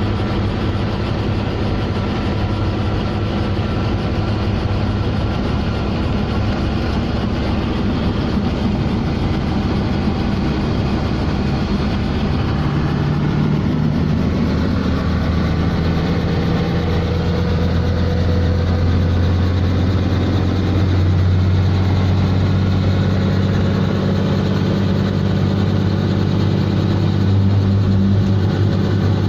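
Helicopter engine and rotor noise: a loud, steady drone with low tones that grows a little louder about halfway through.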